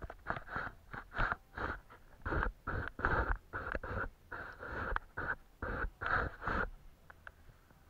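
Paintbrush stroking across paper in quick, short, scratchy strokes, about three a second, stopping shortly before the end with a few faint ticks after.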